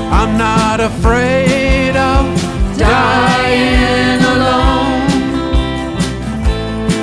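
A band playing a song live: a steady drum beat under a lead melody of long, wavering notes.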